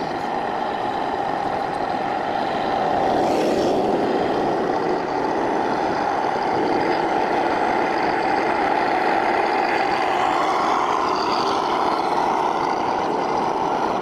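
A radio-controlled model vehicle running steadily, a continuous mechanical hum, with faint higher whines rising and falling about two-thirds of the way through.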